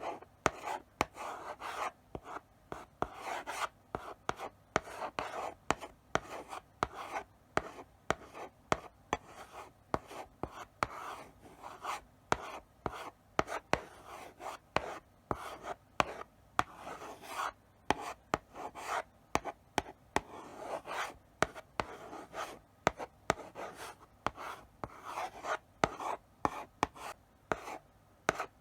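Chalk writing slowly on a blackboard: short scratchy strokes broken by sharp taps as the chalk meets the board, in an irregular rhythm of several strokes a second.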